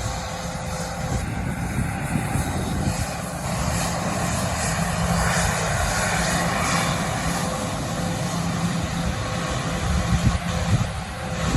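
Aircraft engines running with a continuous rush and a steady low hum, growing louder about halfway through.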